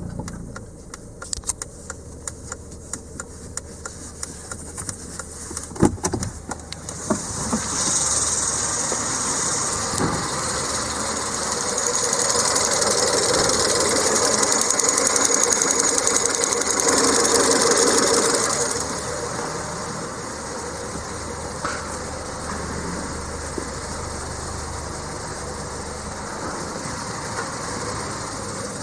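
Volvo V70's 1.6-litre turbocharged four-cylinder (B4164T) in an engine start test: a series of regular sharp clicks for the first few seconds, then the engine starts about seven seconds in. It runs at raised revs for several seconds and drops back to a steady idle a little before two-thirds of the way through.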